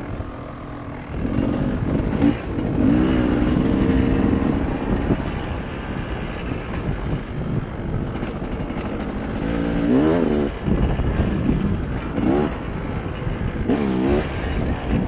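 Dirt bike engine running on a trail ride, its pitch rising and falling several times as the throttle is opened and closed.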